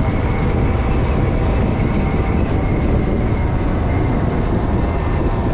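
Steady, loud vehicle noise while moving: engine running with rushing wind and road noise.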